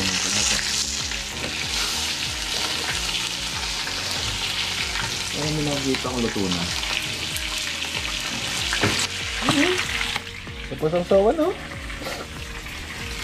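Squid sizzling in hot oil in a frying pan, with the scrape and clicks of a metal spatula turning it. The sizzle stops about ten seconds in.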